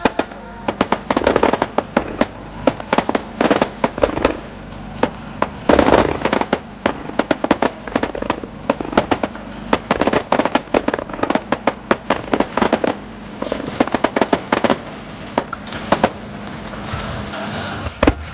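Aerial fireworks going off in a rapid, irregular string of sharp pops and crackles.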